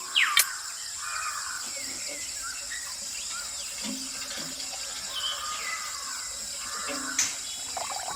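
Water trickling and splashing, with short chirps and a steady high hiss behind it.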